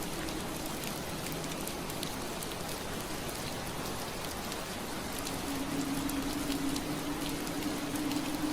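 Steady soft rain against a window glass, an even hiss with scattered drop ticks. A low steady hum fades out in the first second and comes back about five seconds in, a little louder.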